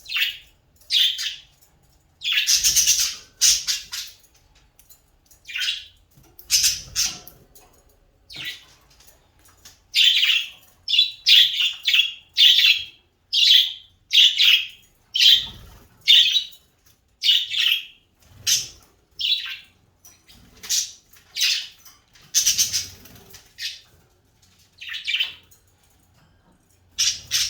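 A bird calling over and over in short, noisy calls, each under half a second. They come in irregular runs and crowd to about two a second through the middle stretch.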